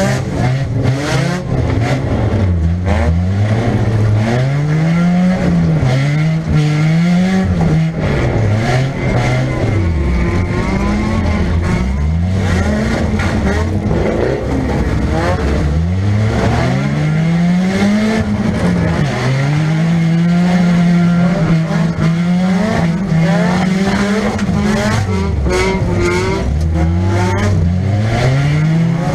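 1998 Nissan Pulsar's 1.8-litre four-cylinder engine, heard from inside the car, revving up and dropping back again and again as it accelerates, backs off and changes gear. A few sharp knocks come in the first several seconds.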